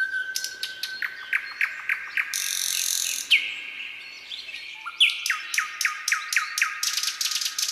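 A songbird singing: phrases of quick downward-sweeping notes, about four a second, with a short buzzy burst between the two phrases.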